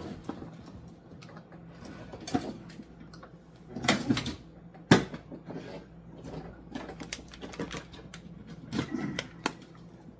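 Kitchen clatter as cookware and ingredients are handled: irregular clicks and knocks, the sharpest about five seconds in.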